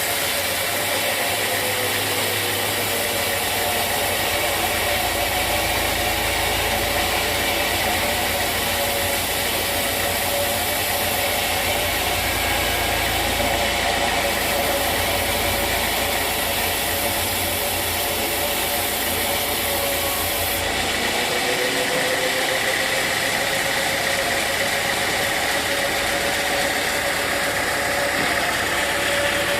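Sawmill saw running steadily through a large log. Its hum sags briefly in pitch near the start and again about two-thirds of the way through.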